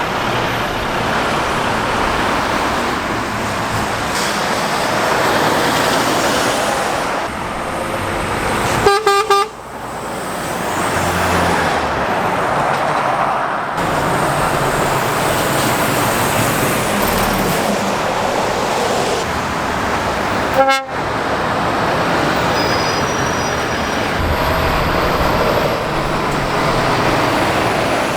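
Lorries and other road traffic passing steadily on a main road. A vehicle horn gives a short toot about nine seconds in, and a briefer one about twenty-one seconds in.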